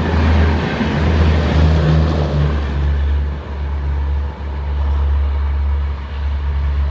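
Indian Railways express train passing at speed: the rush of its coaches on the rails thins out about two and a half seconds in as the last coach goes by and recedes, leaving a steady heavy low rumble.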